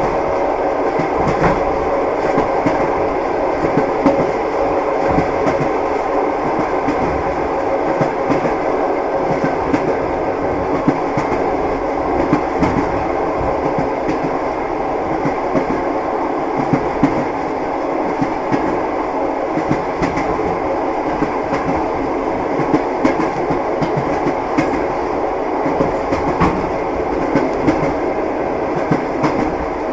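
Train wheels clacking over the rail joints of a moving train, heard from inside the carriage: a steady rumble with frequent irregular knocks.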